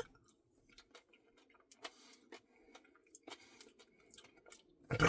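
Faint, scattered small clicks and ticks in an otherwise very quiet room.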